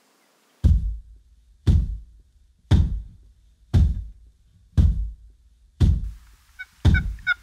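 Music: a deep bass drum beating slowly, about once a second, seven hits each dying away. A faint run of quick high notes comes in near the end.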